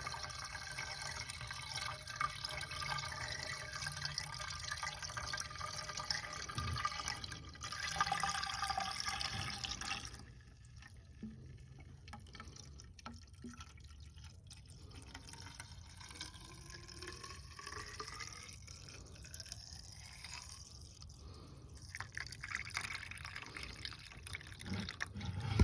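Washer fluid pouring from a jug into a near-empty windshield washer reservoir, gurgling steadily. It gets quieter about ten seconds in, and the pitch then slowly rises as the reservoir fills.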